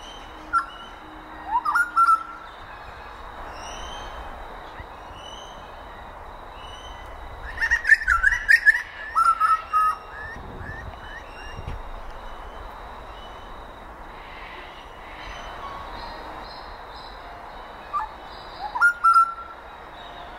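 Outdoor birds calling in short bursts of chirped, whistled notes. There is a brief burst near the start, a longer flurry of quick descending chirps in the middle, and another brief burst near the end, over a steady outdoor background.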